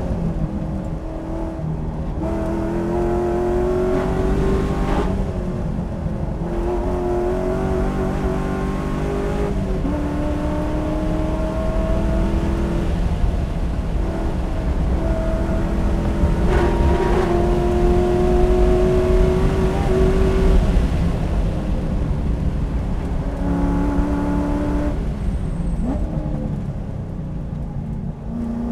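Stock Chevrolet LS3 6.2-litre V8 of a Corvette Grand Sport heard from inside the cabin at track speed, its note climbing under full throttle and dropping away several times as the car brakes and turns through corners.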